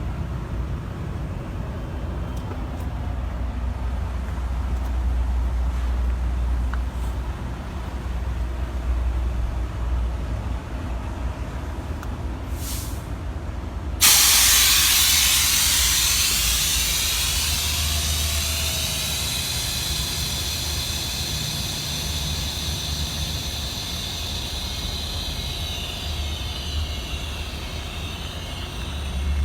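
Heavy truck's diesel engine idling. About halfway through, a sudden loud hiss of compressed air venting starts, with a falling whistle in it, and slowly dies away: air exhausting from the truck's pneumatic system as the axle lift works.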